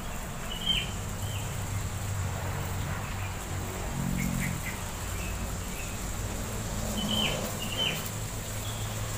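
Birds chirping: a pair of short, falling chirps near the start and another pair near the end, with a few fainter chirps between, over a low steady engine hum.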